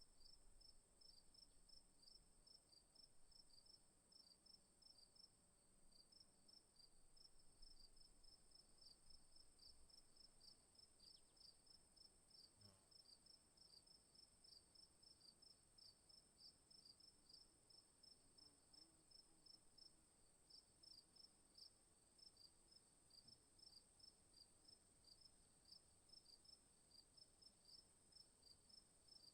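Faint insects chirping: a steady high-pitched buzz under a fast run of repeating high chirps.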